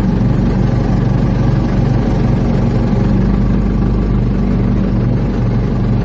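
Ford 755 backhoe's diesel engine running steadily.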